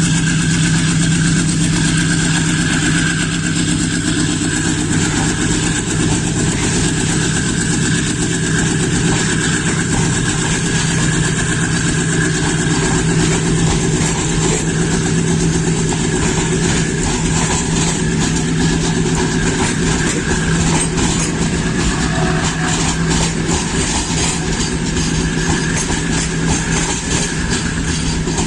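WDG6G diesel-electric goods locomotive's engine running with a steady, deep drone as the train departs. A rapid clatter of wheels over the rails builds up through the second half.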